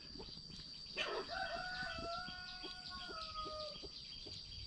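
A rooster crowing faintly, one long call of about two and a half seconds that falls slightly at the end, over a steady high insect buzz and a few faint clicks.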